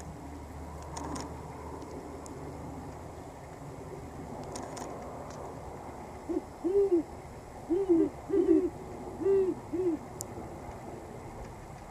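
An owl hooting: a run of about six short, low hoots starting about six seconds in, some in quick pairs.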